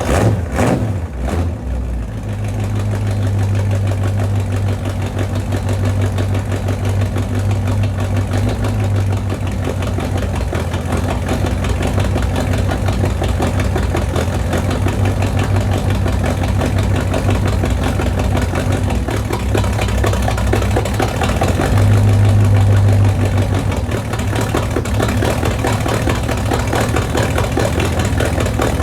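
1978 Chevrolet Corvette C3's 350 small-block V8 idling steadily just after a cold start. A few short uneven bursts come in the first couple of seconds, and the idle briefly grows louder about 22 seconds in.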